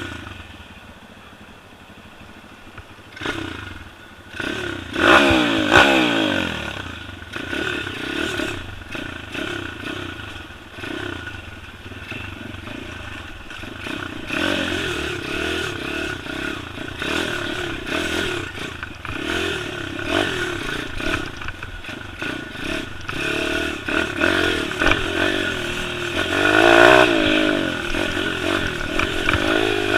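Single-cylinder four-stroke pit bike engine revving up and down as it is ridden off-road, with sharp revs at about five seconds in and again near the end.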